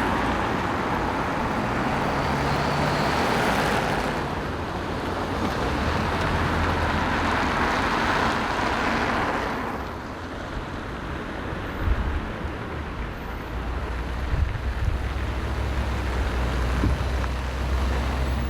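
Street traffic: vehicles passing, two swells in the first ten seconds, then a lower steady rumble with a few short knocks.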